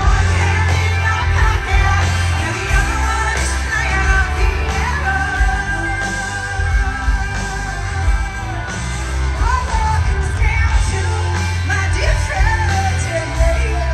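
Live rock band playing, with a woman singing lead over a heavy bass line; about five seconds in she holds one long, wavering note for a few seconds.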